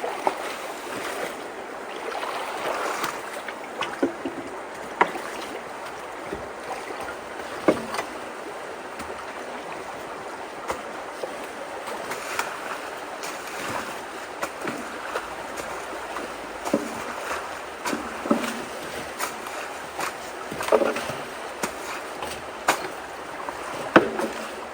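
Steady rush of flowing creek water, broken by frequent short, sharp sounds.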